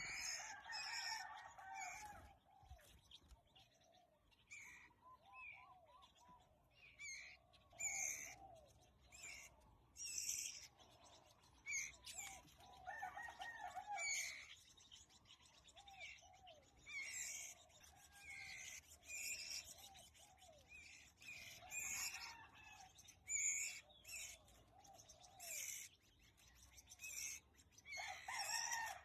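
Birds chirping and calling: short calls repeated every second or two, some lower and wavering, some sharp and high.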